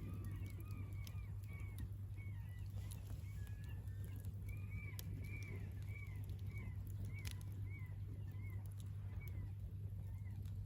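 Campfire crackling with scattered sharp pops, over a steady low hum, while birds call over and over in short arched notes, about two a second.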